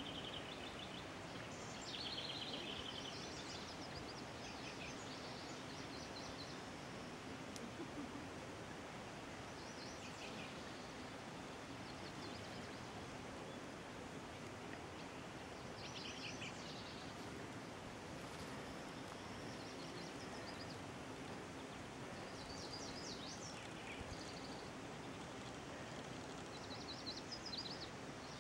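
Small birds singing short, chirpy phrases every few seconds over a steady outdoor background hiss.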